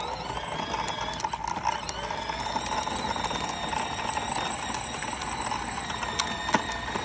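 Small motor of a toddler's dirt bike running with a steady whine, rising a little in pitch as it gets going, with a few sharp clicks near the end.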